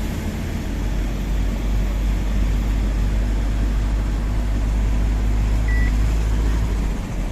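Diesel engine of a loaded Tata 1512 truck running steadily on the road, a deep even drone that eases slightly near the end.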